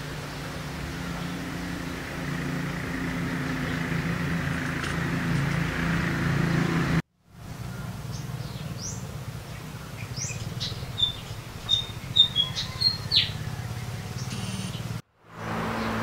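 A steady low hum with a hiss that slowly grows louder, then cuts off suddenly. After it, a small bird chirping: a quick string of short, high chirps over a fainter low hum.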